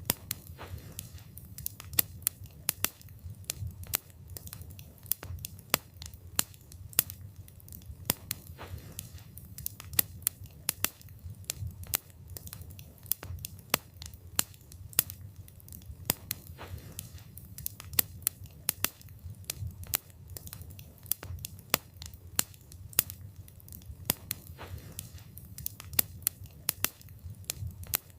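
Wood fire burning, with sharp irregular pops and crackles from the burning wood, several a second, over a steady low rumble of the flames.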